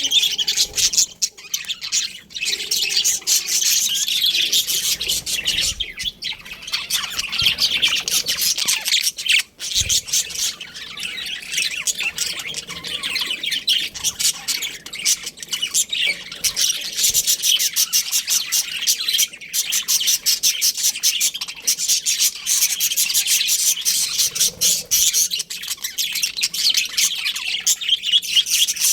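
A colony of budgerigars chattering and chirping all together, a dense, unbroken mass of high chirps and squawks.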